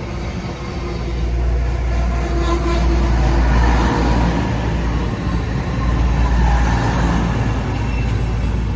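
Passenger train moving through the station: a steady deep rumble of engine and wheels on rail, growing louder over the first few seconds and then easing a little.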